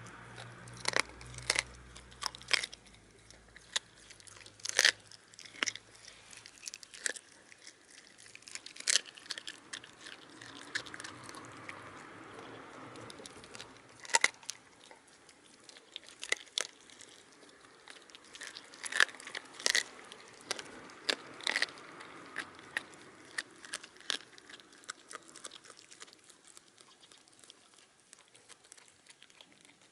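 A Shiba Inu crunching and chewing chicken wing tips, bones cracking in sharp, irregular crunches that thin out near the end.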